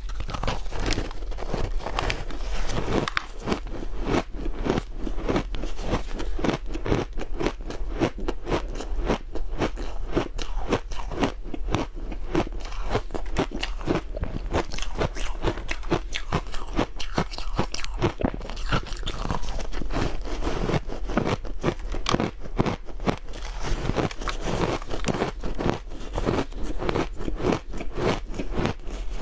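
Close-up crunching of powdery ice snowballs being bitten and chewed, a quick, irregular run of crisp crunches several a second.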